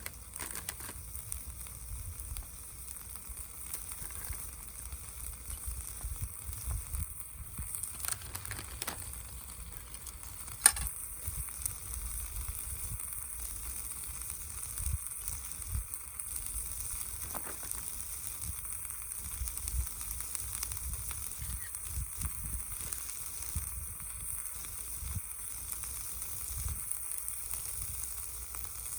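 Food frying in a pan over a wood-fired stove: a steady sizzling hiss with scattered small crackles and a low rumble underneath. One sharp snap comes about eleven seconds in.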